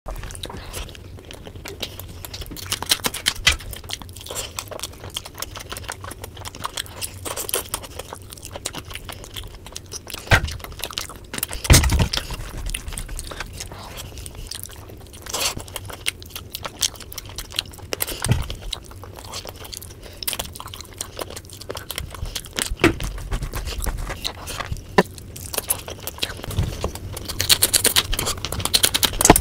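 Close-up chewing and biting of chicken biryani and chicken pieces eaten by hand: a run of small wet mouth clicks and smacks, with a few louder thumps, the loudest about a third of the way through.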